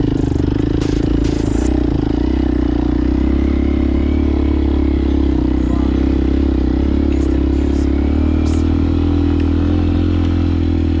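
Motorcycle engine running steadily at an even speed, with no rise or fall in revs.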